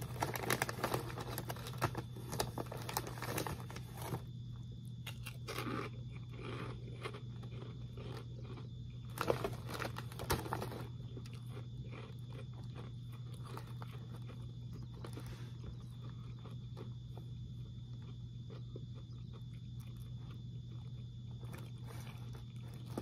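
A snack bag crinkling as a hand reaches in, and crisp fried pork rinds being bitten and crunched, dense for the first few seconds. After that come a few louder bites around six and ten seconds in, then quieter chewing with sparse crunches over a steady low hum.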